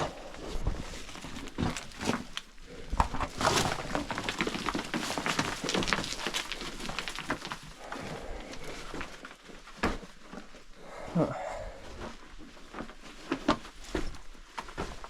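Irregular scuffs, scrapes and knocks of a person crawling over rock through a tight cave entrance.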